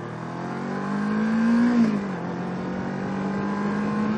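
Kawasaki Ninja 650R's parallel-twin engine accelerating: its pitch rises for almost two seconds, drops sharply at an upshift, then climbs again in the next gear, with wind noise underneath.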